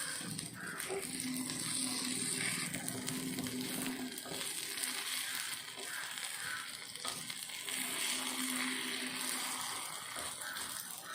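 Egg omelette balls sizzling steadily in hot oil in the wells of a paniyaram pan, with small scrapes and taps as they are turned over.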